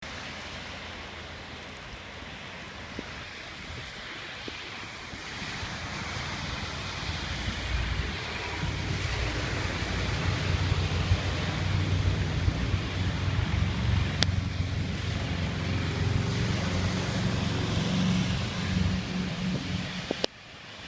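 Storm runoff rushing into an overwhelmed parking-lot catch basin: a steady rush of water that grows louder over the first several seconds, with a deep low rumble joining about eight seconds in. It cuts off suddenly just before the end.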